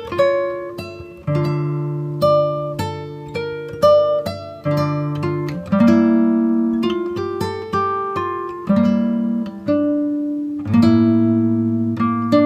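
Background music: an acoustic guitar picking a melody of single plucked notes over held bass notes.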